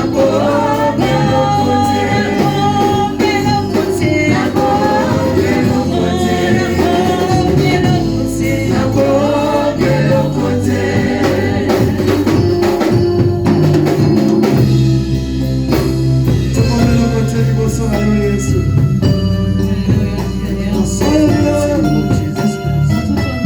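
Gospel worship song: a choir and singers over a band with bass and drums.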